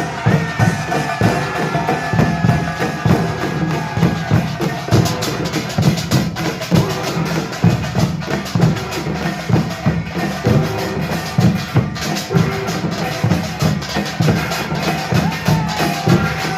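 Korean pungmul percussion ensemble playing a fast, dense rhythm: drums and small hand gongs struck in quick succession. A held, slightly wavering tone sounds over the beat for the first few seconds and again near the end.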